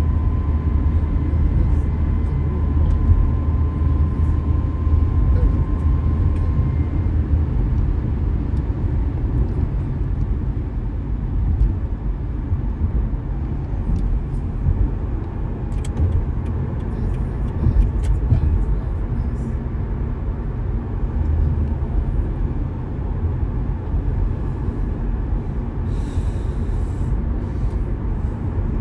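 A car driving at a steady pace, giving a continuous low rumble of road and engine noise. A faint steady high tone runs through the first several seconds, and a few light clicks come about two-thirds of the way in.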